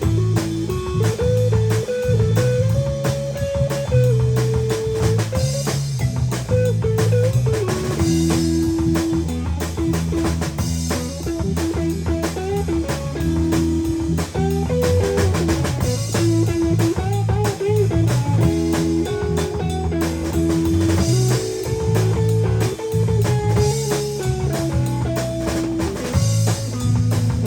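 A band playing a blues-style instrumental passage: a guitar carrying the melody over a drum kit and bass.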